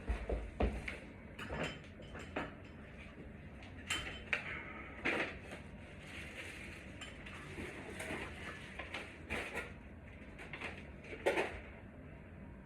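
Irregular clinks and knocks of small metal parts and tools being handled, a dozen or so scattered sharp clicks with the loudest just after eleven seconds in.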